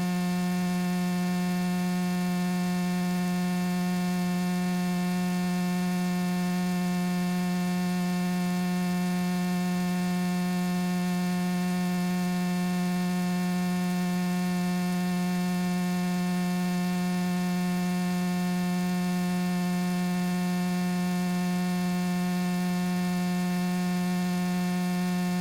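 Steady electrical hum in a light aircraft's radio and intercom audio feed: one unchanging low tone with a stack of fainter overtones over a light hiss, heard in a gap between radio calls.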